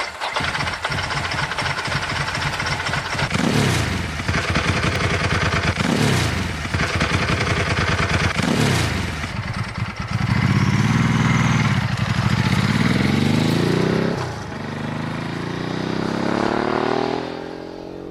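Ducati 999's V-twin engine under hard acceleration. The revs climb and drop sharply three times as it is shifted up through the gears. It then holds at high revs, backs off and builds again, with wind noise over the engine.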